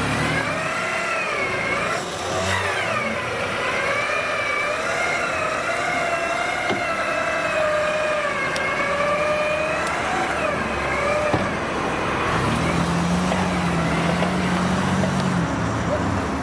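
4x4 SUV engine revving under load off-road, its pitch wavering up and down for about eleven seconds, then settling to a lower, steadier engine note for a few seconds.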